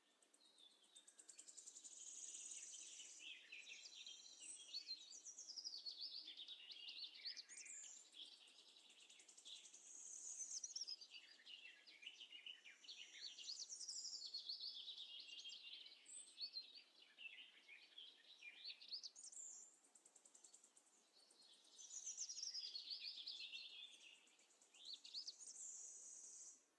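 Faint birdsong: rapid, high chirps and trills in phrases of several seconds, with short pauses between them.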